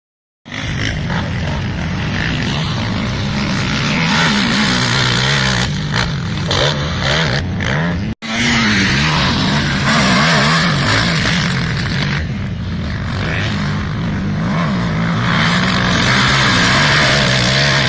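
Kawasaki KFX 450R quad's single-cylinder four-stroke engine revving up and down as it is ridden, its pitch rising and falling with the throttle. The sound cuts out for an instant about eight seconds in.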